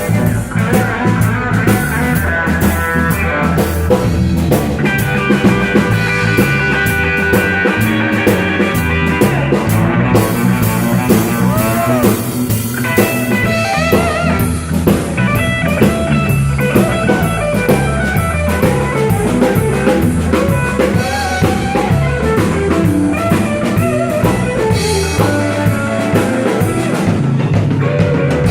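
Live blues band playing: a drum kit keeps a steady beat under a guitar, with a few bent, wavering notes about twelve seconds in.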